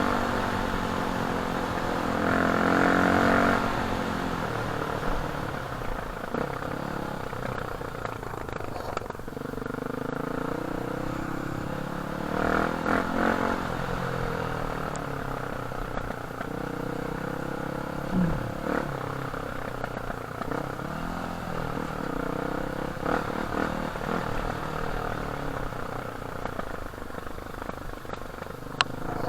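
Dirt bike engine running under way. It revs up strongly near the start, then settles lower, rising and falling with the throttle, with a few short knocks from the rough track.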